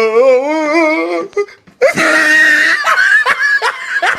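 People laughing: a long, wavering drawn-out voice, then short repeated bursts of laughter.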